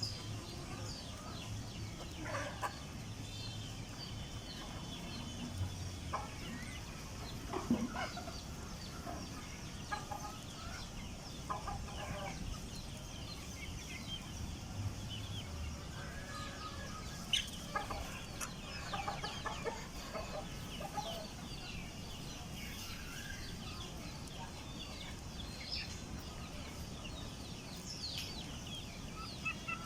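Hen clucking on and off, with many chicks peeping in short high chirps.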